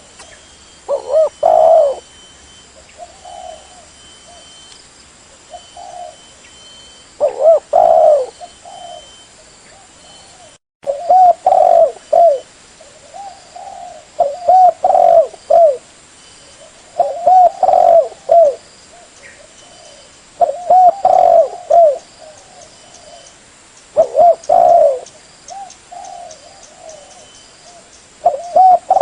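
Spotted dove cooing, the tekukur call played as a bird-catcher's lure: short phrases of several low coos, repeated about every three seconds.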